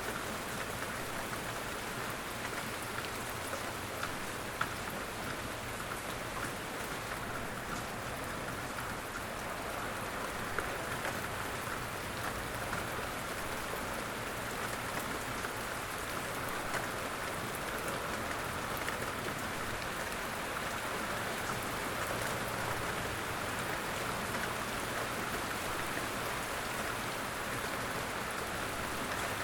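Steady light rain falling through woodland: a constant hiss of rain on leaves, with many small separate drops ticking.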